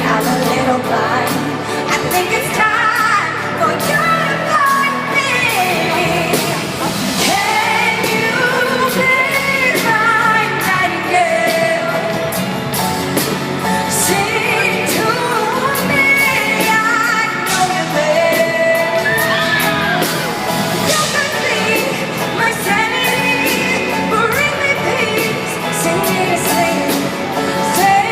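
Live pop ballad: a woman's lead vocal singing over band accompaniment, heard through the echo of a large arena.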